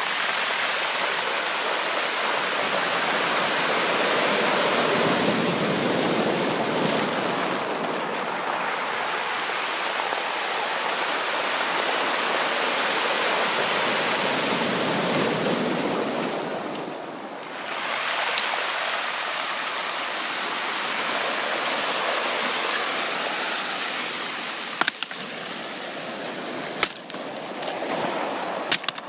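Sea waves washing onto a beach: a steady rush of surf that swells and eases, dropping briefly about two-thirds of the way through. Near the end a few sharp clicks sound over the wash.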